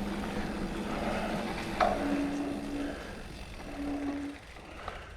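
Mountain bike rolling along a dirt trail: steady tyre and rattle noise, with a sharp knock just under two seconds in and two short low hums.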